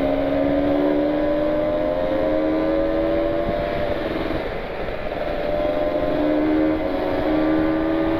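Kawasaki Ninja 150 RR's two-stroke single-cylinder engine pulling under way while riding, its note climbing steadily, easing off about four seconds in, then climbing again, over wind noise.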